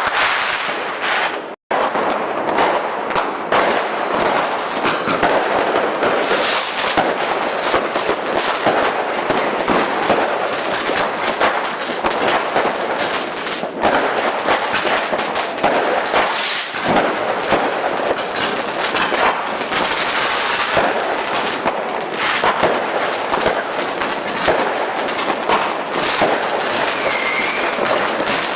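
Many fireworks and firecrackers going off at once: a dense, continuous crackle of pops and bangs with no gaps between them. It breaks off for an instant about a second and a half in.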